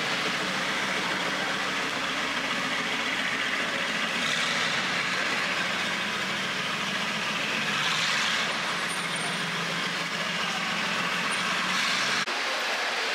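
Mercedes-AMG GT R's twin-turbo V8 running at idle under a steady hiss of vehicle noise, with mild swells about four and eight seconds in; the sound drops off abruptly near the end.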